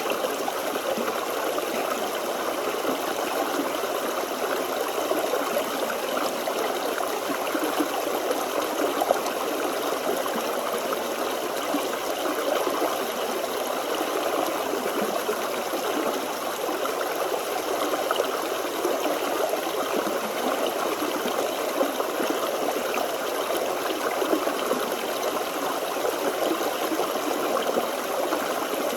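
A small forest stream running over stones: a steady burble and trickle of water.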